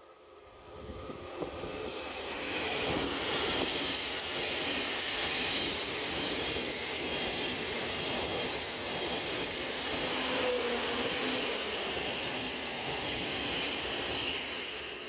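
Thameslink Class 700 electric multiple unit running past the platform: the rush of wheels on rail swells over the first couple of seconds as it arrives, holds steady while the carriages go by, and eases off near the end.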